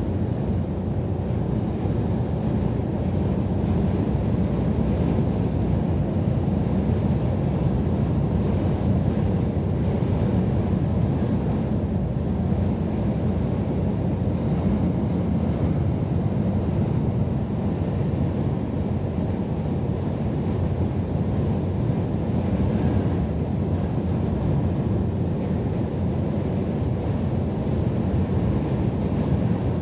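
Scania R500 truck driving at a steady pace: an even low rumble of engine and road noise that holds level throughout.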